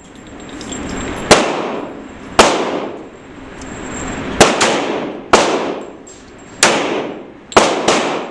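Six handgun shots fired one at a time, irregularly about a second apart, each with a long echoing tail.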